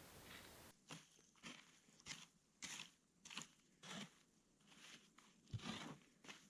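Footsteps crunching through dry fall leaves and forest litter, about one and a half steps a second, starting about a second in after a steady hiss cuts off.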